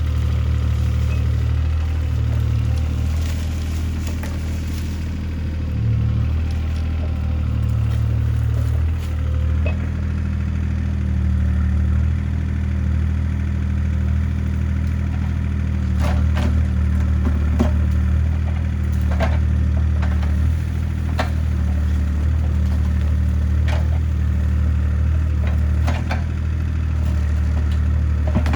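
CAT 303C CR mini excavator's diesel engine running steadily at work, its note shifting a little in the first few seconds. In the second half come a series of sharp cracks and knocks.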